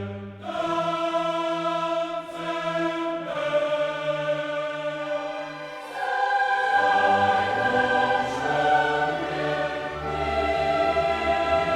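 Background music: a choir singing long held chords over an orchestra, growing louder about six seconds in.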